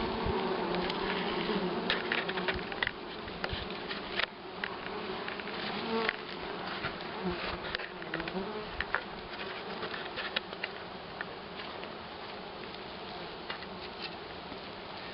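Honeybees buzzing around their hive, a steady hum that is strongest in the first couple of seconds, with scattered light clicks.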